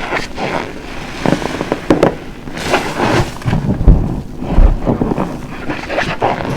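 A large car-wash sponge full of dish-soap lather being squeezed over and over close to the microphone: irregular wet squelching and crackling foam, with a couple of heavier squishes about four seconds in.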